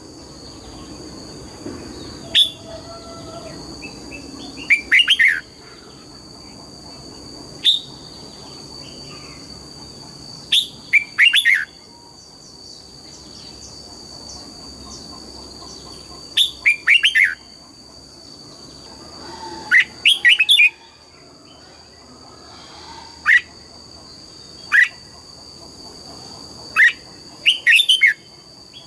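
Red-whiskered bulbul singing short, loud, clear phrases every few seconds. Some are single notes and others quick runs of several notes, with a steady high whine underneath.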